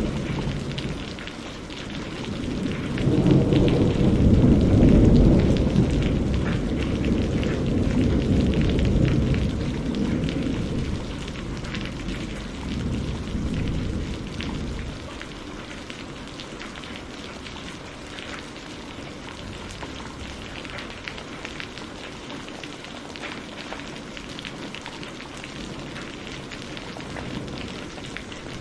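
Steady rain with a long roll of thunder that swells a few seconds in and dies away about halfway through, leaving only the rain.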